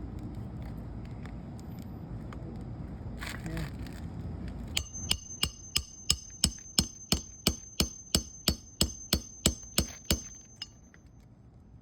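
Hammer driving a roofing nail into an asphalt shingle: a steady run of about eighteen quick strikes, roughly three a second, each with a high metallic ring, starting about five seconds in. Before that, a low background rumble and a brief scuffing sound.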